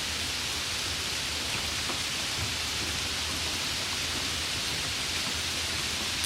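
Steady rain falling as an even hiss, with faint scattered drop ticks.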